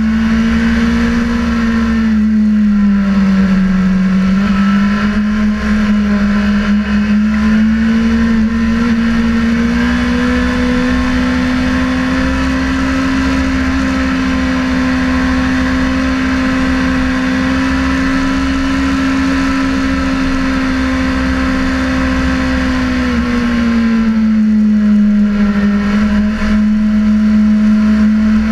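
Sportbike engine running hard at high revs, its note holding steady with two brief dips in pitch where the throttle eases and then builds again, over constant wind rush.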